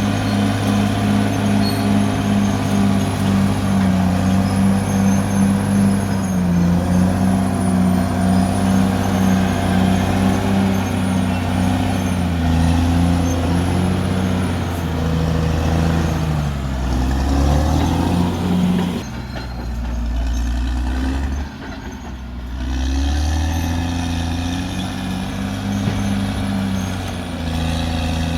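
Caterpillar D6R XL bulldozer's diesel engine running hard under load. The revs sag about two-thirds of the way through, the engine eases off for a few seconds, then it builds again.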